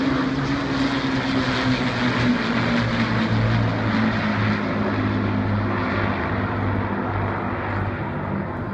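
Avro Lancaster bomber's four Rolls-Royce Merlin piston engines droning in a propeller flypast, the pitch slowly falling as it passes.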